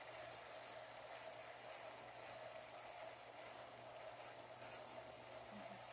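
Chicken and chopped green onion frying in a pan, with a steady, even sizzle.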